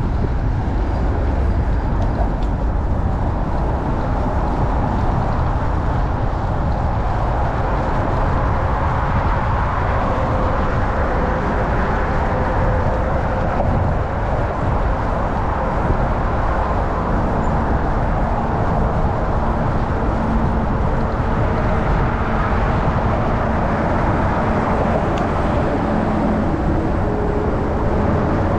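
Wind rushing over the microphone of a chest-mounted camera on a moving bicycle, a steady deep rumble, mixed with the noise of city traffic.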